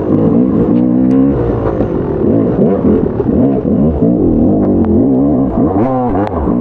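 Motocross bike engine revving hard and backing off as it is ridden around the track. Its pitch climbs and drops every second or so, with a quick sharp rise near the end.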